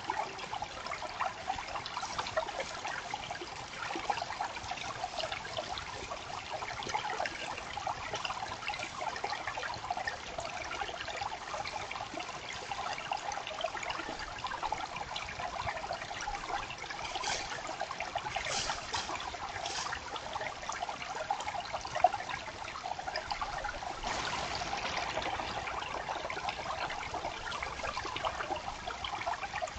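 Creek water trickling and babbling steadily, with a few brief louder bursts of water noise a little past the middle.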